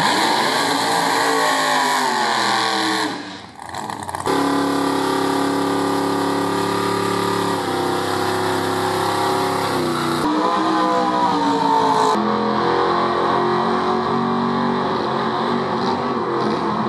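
Drag cars doing tyre-smoking burnouts one after another, their engines revving hard and held at high revs while the rear tyres spin. The revs rise and fall in the first few seconds, then hold steady. The sound changes abruptly about three to four seconds in, and again around ten and twelve seconds in, as it switches from one car to the next.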